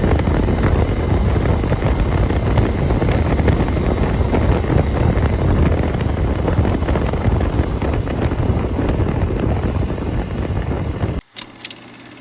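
Wind buffeting the microphone on a motorcycle riding at speed: a dense, steady rush, heaviest in the low end. It cuts off suddenly about a second before the end, leaving a few sharp clicks and a quiet, steady low hum.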